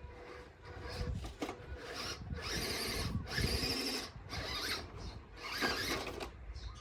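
Radio-controlled off-road truck's electric motor and gears whining in short, uneven bursts of throttle.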